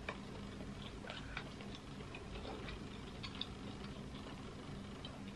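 Quiet chewing, with faint scattered mouth clicks and small smacks over a low steady hum.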